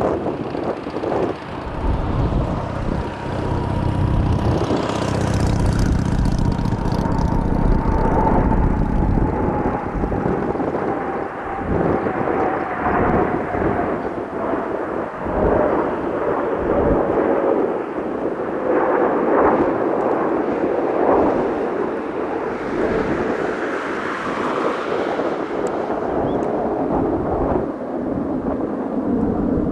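Jet noise from Kawasaki T-4 trainers of the Blue Impulse team, powered by twin turbofans, passing in flight. A continuous loud rumbling roar carries an engine whine that falls slowly and steadily in pitch as the jets move away.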